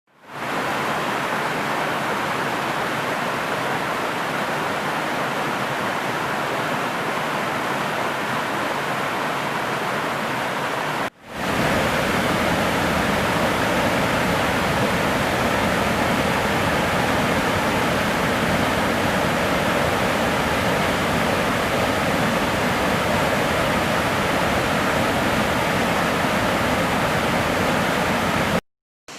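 Waterfall: a steady, even rush of falling water. It cuts out briefly about eleven seconds in, resumes a little louder, and drops out again shortly before the end.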